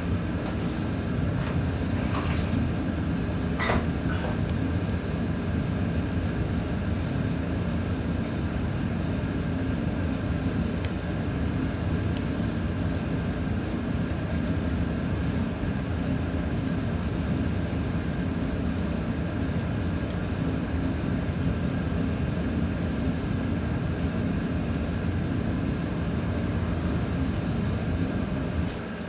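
Oak firewood blazing in the firebox of a wood-fired heating boiler: a steady low roar of the fire, with occasional crackles and pops from the burning logs.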